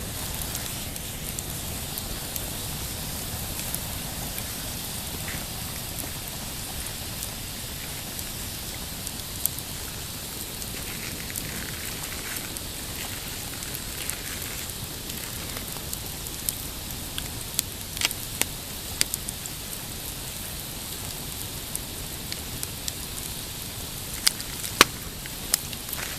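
Pine campfire crackling over a steady hiss, with scattered sharp pops that come more often in the second half; the loudest pops are near the end.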